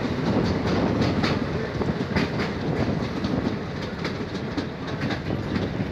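Passenger train coaches running on the track, heard from aboard at an open doorway: a steady rumble with scattered sharp clicks of the wheels over rail joints, most of them in the first half.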